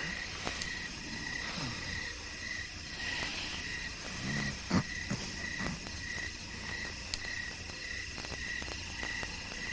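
Crickets chirping in evenly repeated pulses, a night-time sound effect, with a few faint low sounds in between.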